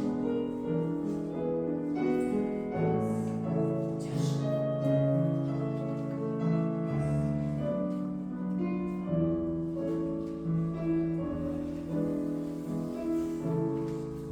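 Piano music for a ballet class exercise, a steady melody of held notes over chords and a bass line.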